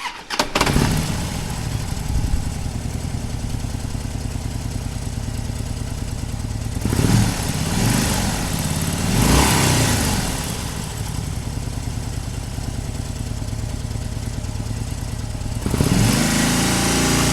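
Suzuki GS500F motorcycle's air-cooled parallel-twin engine idling, blipped up and back down twice, about seven and nine seconds in. It gets louder near the end with another rise and fall in pitch.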